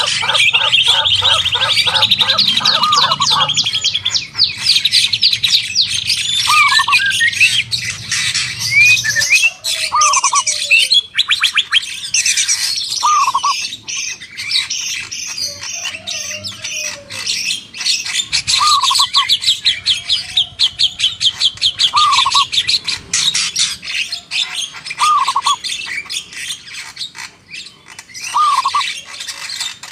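A mixed chorus of wild songbirds: dense, rapid trills and chatter, with one bird giving a short lower call over and over, about every three seconds.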